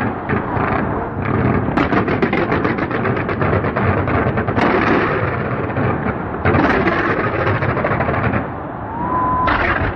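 Fireworks show: rapid crackling salvos and bangs of aerial shells, with new volleys starting suddenly every couple of seconds. Near the end a whistling shell rises in pitch, then bursts.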